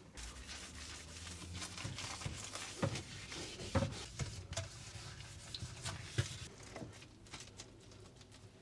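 Household handling noise: rustling and rubbing with scattered light knocks and clicks, the loudest knock about four seconds in.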